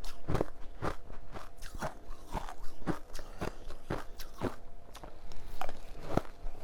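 A person biting and chewing hard ice, in a steady run of sharp crunches about two a second.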